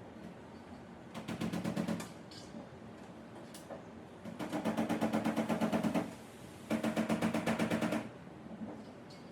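A power tool running in three short bursts, each a fast, even rattle of about a dozen pulses a second over a steady hum, with quiet gaps between.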